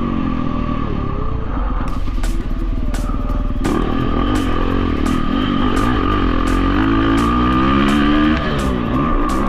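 Dirt bike engine revving up and down while riding. Its pitch dips about a third of the way in, climbs for several seconds, then drops and picks up again near the end.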